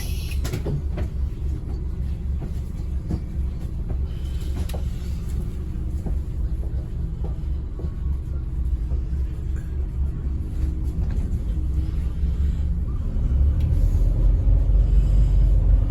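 Scania N270UD OmniCity double-decker bus under way, heard from inside: a steady low rumble of engine and road with light rattles, growing louder near the end.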